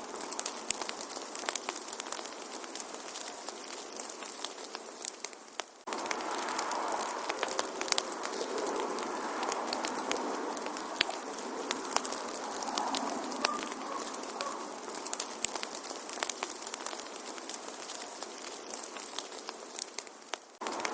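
Wood fire crackling, with many sharp pops and snaps over a soft steady hiss of burning. The sound dips briefly about six seconds in and again near the end, then carries on as before.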